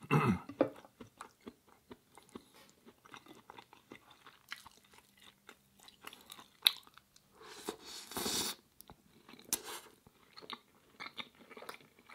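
A person eating curry, rice and bread close to the microphone: chewing with many small wet mouth clicks and smacks. There is a louder bite right at the start and a longer, louder burst about eight seconds in.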